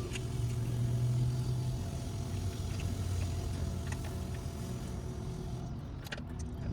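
1984 Chevy C20 truck's carbureted gasoline engine running at a steady idle, a little louder in the first couple of seconds.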